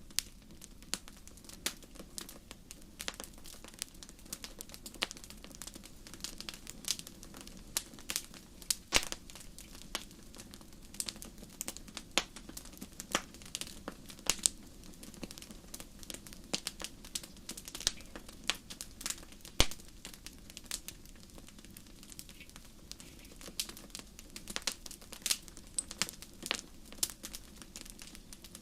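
Wood campfire crackling, with many irregular sharp snaps and pops over a faint steady low rush of the burning fire.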